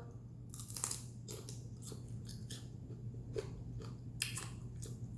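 A person chewing food close to the microphone: a string of irregular sharp clicks and crunches from the mouth.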